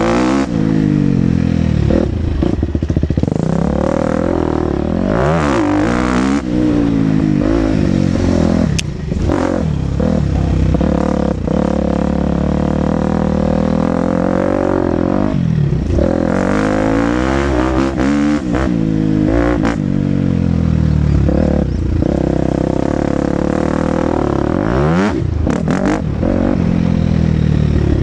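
2023 KTM 250 SX-F's single-cylinder four-stroke motocross engine, heard from onboard the bike, revving up and dropping off again and again as the rider accelerates and rolls off around the track, with some rattling from the bike.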